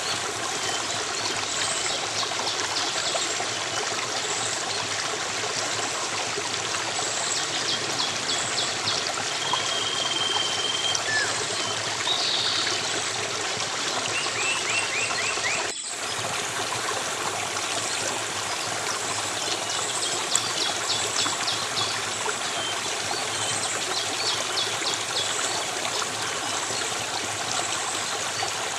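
Stream water running steadily, with small birds chirping in short rapid trills over it. The sound dips briefly about halfway through.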